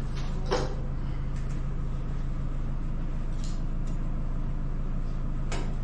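Steady low hum with an even background noise, broken by a few sharp knocks, one about half a second in and one near the end.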